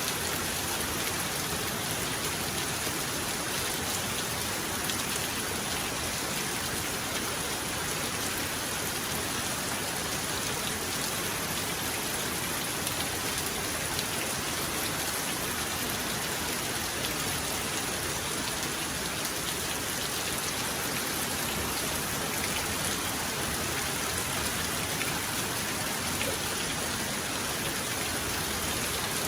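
Heavy rain falling steadily, a dense even hiss of drops on surfaces, with no thunder heard.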